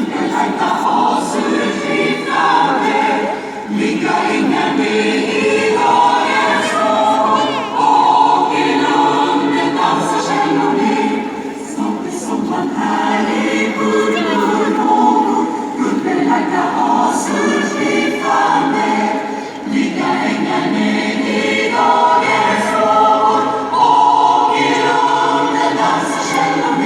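A choir singing together in sustained phrases, with short breaks between them.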